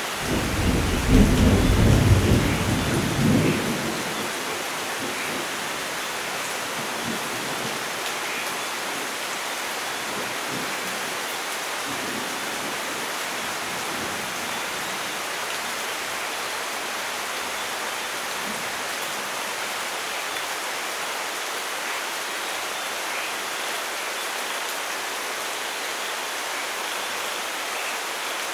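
A thunderclap rumbles loudly at the start and dies away over about four seconds, over steady heavy rainfall that carries on evenly to the end.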